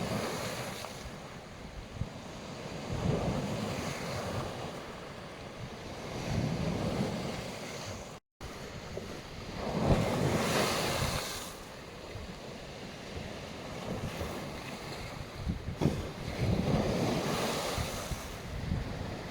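Black Sea surf washing onto a beach, each wave swelling and fading every few seconds, the loudest about ten seconds in, with wind buffeting the microphone. The sound drops out completely for a moment about eight seconds in.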